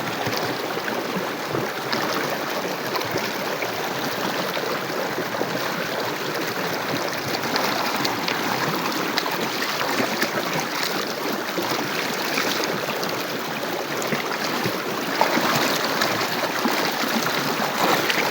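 Water running and splashing steadily, a little louder near the end.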